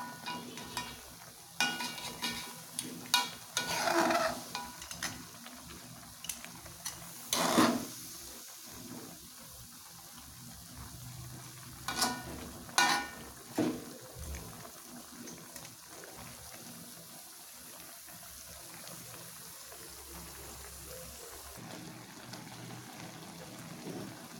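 A cooking pot of fish in turmeric broth being stirred. A utensil knocks and clinks against the pan several times, mostly in the first half and again about halfway through, over a steady faint hiss of the broth coming to the boil.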